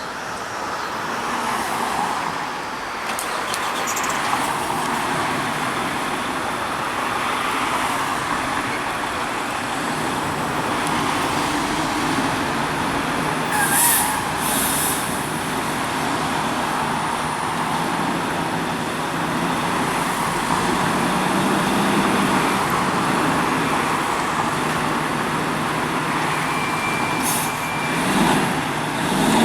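Street traffic noise with a heavy vehicle's engine running steadily, and a short sharp hiss about fourteen seconds in.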